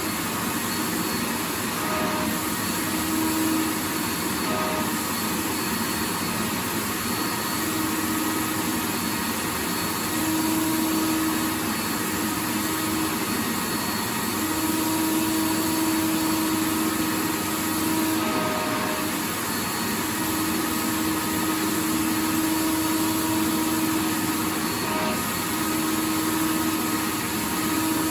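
Vacuum cleaner running continuously: a steady rush of air noise with a motor hum that fades in and out every few seconds.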